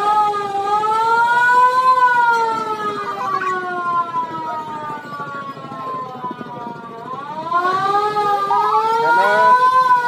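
Passenger launch's siren wailing, its pitch rising to a peak about two seconds in, sliding slowly down, then rising again about seven seconds in to a second peak near the end.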